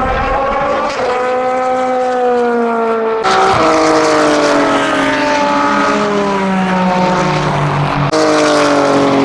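BMW M4 GT3 race car's twin-turbo three-litre straight-six running at speed, its note sliding slowly down in pitch and then jumping abruptly higher about three seconds in and again near the end.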